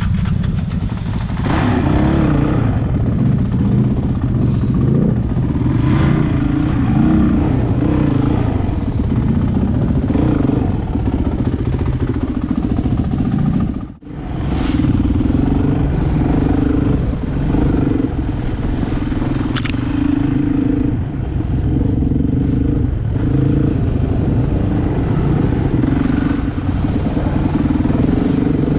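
Dirt bike engine running under way, its pitch rising and falling with the throttle in steps, with some clatter over it. The sound drops out suddenly for a moment about halfway through.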